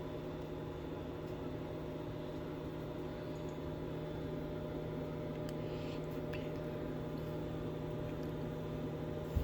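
Samsung microwave oven running on its pizza cycle: a steady hum with a few faint ticks near the middle and a brief thump right at the end.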